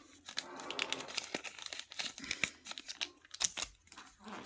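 Crinkling and rustling of trading-card packaging and cards being handled, in a string of irregular small crackles and clicks.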